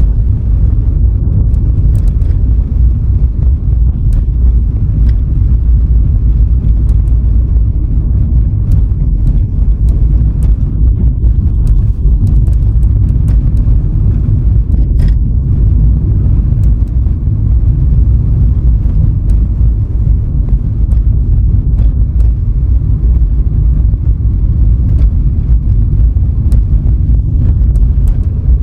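Steady low rumble of a car on the move: road and wind noise, with scattered faint ticks.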